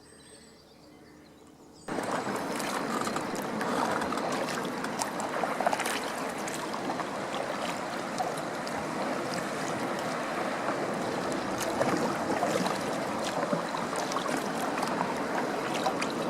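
Water splashing and rushing around a kayak on the move, with scattered small splashes; it starts suddenly about two seconds in, after faint quiet.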